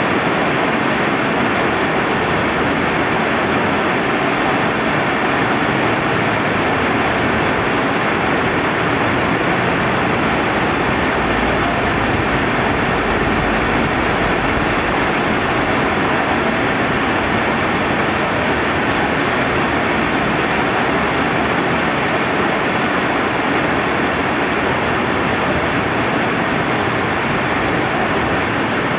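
Steady rain together with a flowing river: a dense, even hiss with no breaks.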